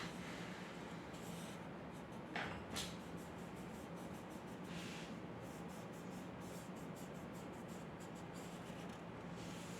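Drawing tool scratching across paper in short strokes, with two light taps between two and three seconds in, over a faint steady hum.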